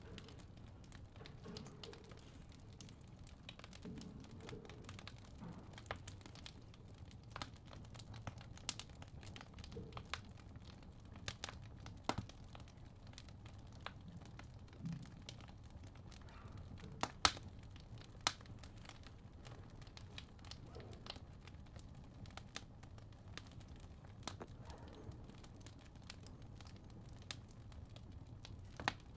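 Fire crackling in a fireplace: irregular sharp pops and snaps over a low, steady rumble, with a few louder pops partway through.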